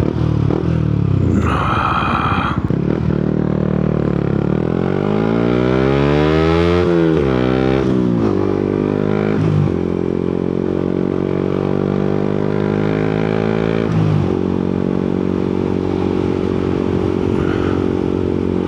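Yamaha MT-125's single-cylinder engine under way, its revs climbing and then dropping sharply at a gear change about seven seconds in, then holding steady. A short high-pitched tone sounds about a second and a half in.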